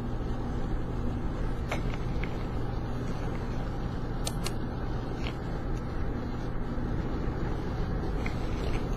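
Steady road and engine noise inside a moving car's cabin, with a low hum, and a few faint ticks about two and four to five seconds in.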